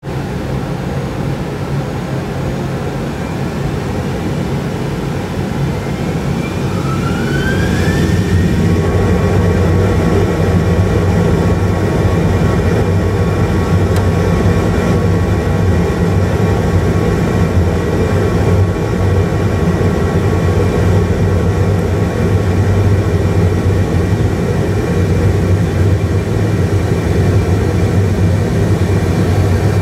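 Simulated Boeing 737-800 jet engines in a full flight simulator spooling up for take-off. A whine climbs in pitch and levels off about nine seconds in, then the engines hold a steady drone over the low rumble of the take-off roll.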